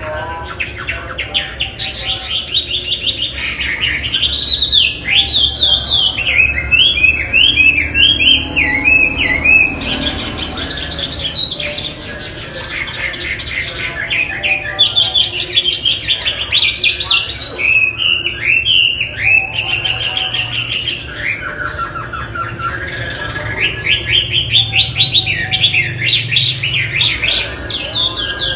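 Chinese hwamei (melodious laughingthrush) singing a loud, varied song of rapid repeated notes and rising and falling whistles, in long phrases broken by a few short pauses.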